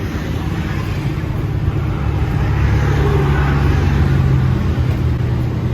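Motor vehicle engine running steadily close by, a low rumble with a slight swell in the middle.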